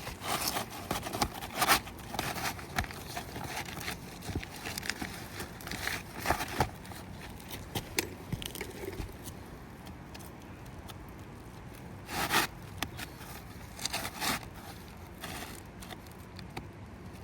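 New roof shingle scraping and rustling as it is worked into place under the overlapping shingles, with irregular scrapes and a few louder knocks.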